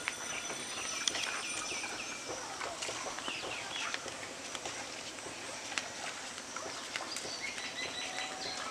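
Birds calling in short, repeated phrases of falling chirps, with a few scattered clicks.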